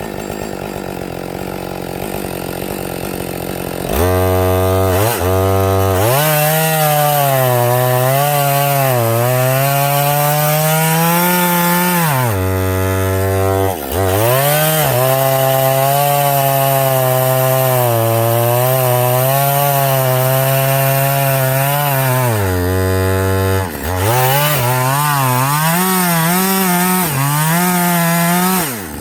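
Husqvarna 562 XP two-stroke chainsaw, running slowly at first and then opened up to full throttle about four seconds in, cutting wood with its engine pitch sagging and recovering under load. The throttle eases off briefly twice and again at the end. The chain is dull, so the saw bogs and cuts slowly.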